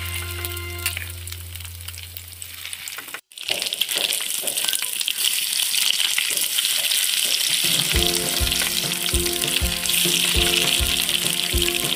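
Battered fish roe pieces sizzling as they shallow-fry in hot oil in a pan. The sizzling starts after a brief break about three seconds in. Background music fades out at the start and comes back over the frying about two-thirds of the way through.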